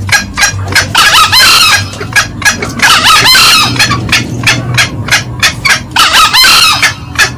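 Green junglefowl calling: a fast run of sharp cackling clucks, about three or four a second, broken by three hoarse, rasping crows about a second in, three seconds in and six seconds in. This is a lure call, with male crows over female cackling.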